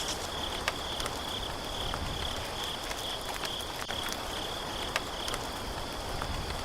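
Insect chirping: a high, thin buzz that pulses about twice a second, with scattered light clicks.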